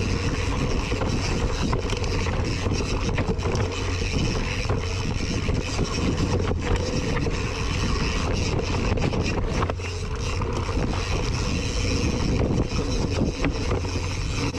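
Mountain bike riding downhill on a dirt trail: tyres rolling over rough ground, with frequent clicks and rattles from the chain and frame, and wind buffeting the microphone.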